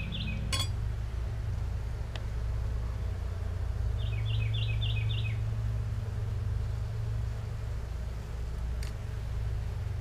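A small bird gives a quick run of about six short, falling chirps in the middle, over a steady low hum.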